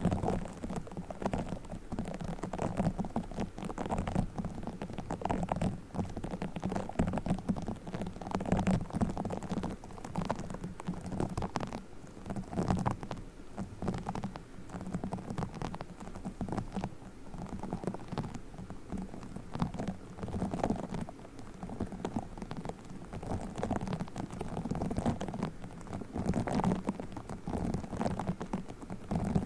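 Play foam being squeezed and kneaded close to the microphone, giving a dense run of small crackles and squishes.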